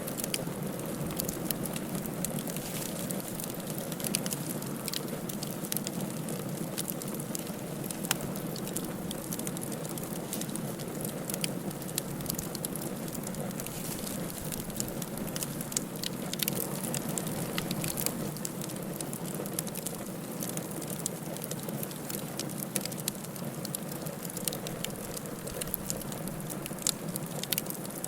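Firewood burning in a fireplace: a steady hiss and rush of flame with frequent small, irregular crackles and pops.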